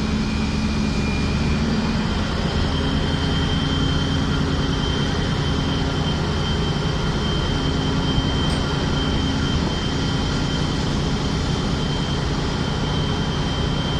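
A ship's engines and machinery running steadily: a low rumble and hum with a steady high-pitched whine on top.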